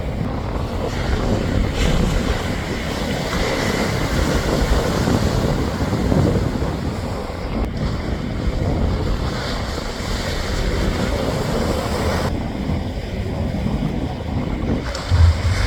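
Strong wind buffeting the microphone over the steady wash of ocean surf, with a hard low gust thump near the end.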